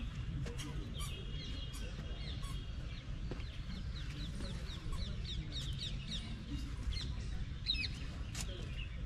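Small birds chirping in quick strings of short, sharp notes, thickest in the second half, over a steady low rumble.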